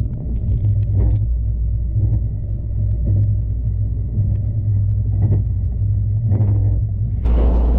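Train running at speed: a steady low rumble with a few soft knocks and a faint steady high whine through most of it.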